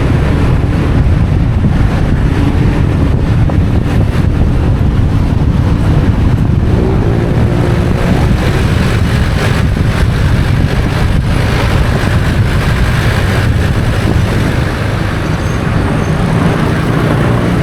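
Motorcycle engine running under way, mixed with road and traffic noise and wind buffeting the microphone on the moving motorcycle.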